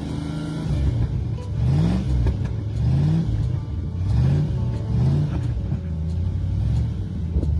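Engine of a 1983 Chevrolet C10 pickup, idling and blipped with the throttle about five times, its pitch rising and dropping back each time.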